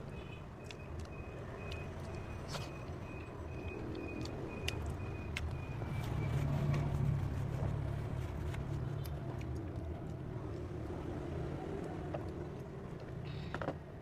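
Low rumble of road traffic that swells as a vehicle passes about halfway through. A rapid high-pitched electronic beep, about three a second, sounds over it and stops midway.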